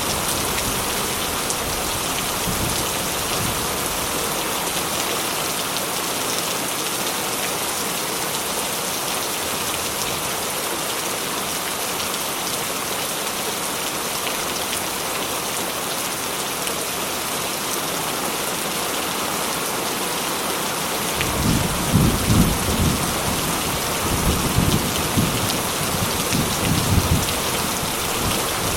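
Heavy rain drumming steadily on a corrugated metal roof. Rolling thunder comes in about two-thirds of the way through as several low rumbles, then fades again near the end.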